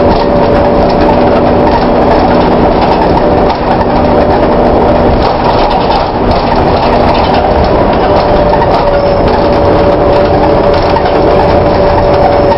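VDL DB250 double-decker bus running, its driveline giving a steady held whine over the engine and road noise, with scattered rattles and clinks from the body. The whine is the unusual sound this bus makes compared with others of its type.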